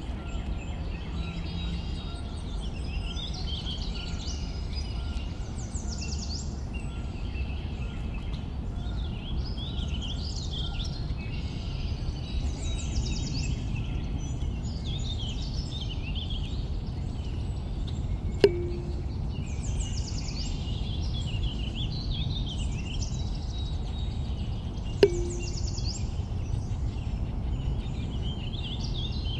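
Many birds chirping and calling over a steady low outdoor rumble. Twice, about two-thirds of the way through and again near the end, a sharp click with a short low tone cuts in.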